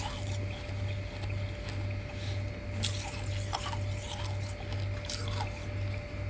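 Freezer frost crunched between the teeth in a few crisp, separate bites, over a steady low hum that pulses about twice a second.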